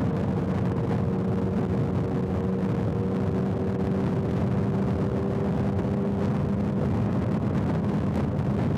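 Motorcycle engine running at a steady highway cruising speed, its note held constant, over a continuous rush of wind and road noise.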